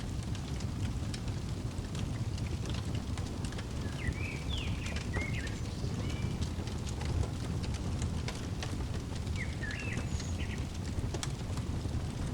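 Fireplace crackling, with frequent sharp pops over a steady low rumble of the burning fire. A bird chirps short quick phrases twice, near the middle and toward the end.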